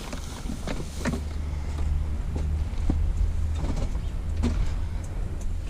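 A vehicle's engine running with a steady low rumble that starts suddenly, with scattered light knocks and rattles over it.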